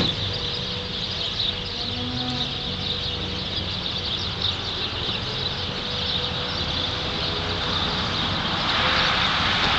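Steady outdoor background noise: a low rumble and hiss with a faint steady hum, growing a little louder near the end.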